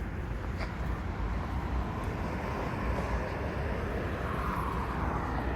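Steady low rumble and noise of an approaching BNSF freight train's diesel locomotives, without a horn yet.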